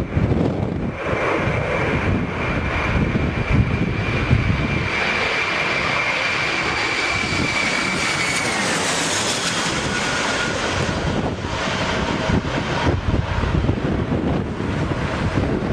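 Aircraft engine passing close by: a steady high whine over a rumbling noise, the whine dropping in pitch about eight to nine seconds in as the aircraft goes past.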